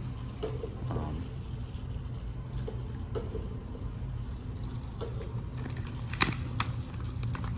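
Steady low hum of indoor store background noise, with faint distant voices early on and scattered small clicks, one sharper click about six seconds in.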